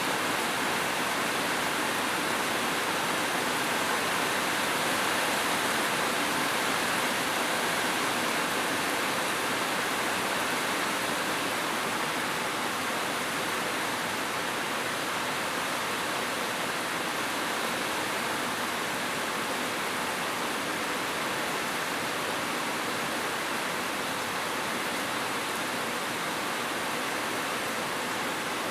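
Steady rain falling: a continuous, even hiss that holds its level throughout.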